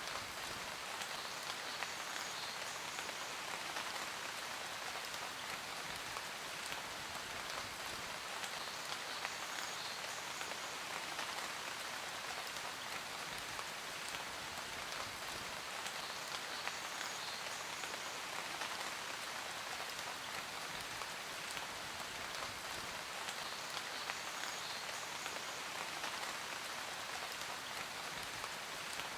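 Steady rain falling on a surface, with a continuous hiss and many small drop ticks.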